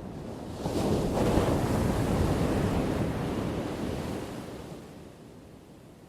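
Ocean wave breaking and washing in: the surf noise swells sharply about a second in, holds, then fades away over the last couple of seconds.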